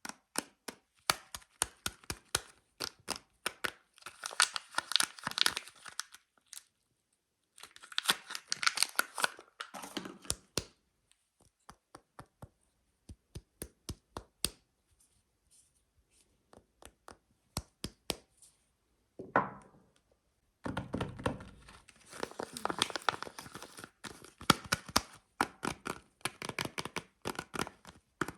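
Soap packaging being unwrapped close to the microphone: dense crinkling and tearing of the wrapper in three long stretches, with many sharp clicks and taps in between.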